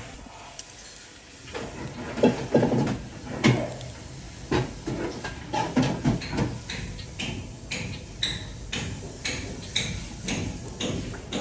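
Kitchen utensils knocking and clinking, starting after a moment of steady hiss; the strokes are irregular at first, then settle into about two a second, some with a bright metallic ring.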